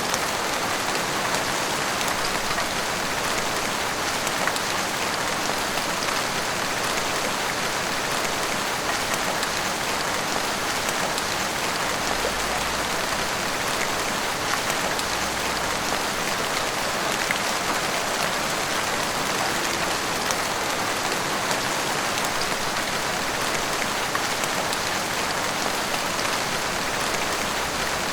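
Heavy rain falling steadily, a dense even hiss of drops striking rooftops and the street, with many individual drop impacts through it.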